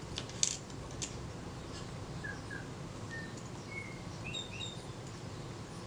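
Faint, short bird chirps in the background, scattered through the middle and later part. A few light clicks in the first second come from small camera parts being handled on the bench.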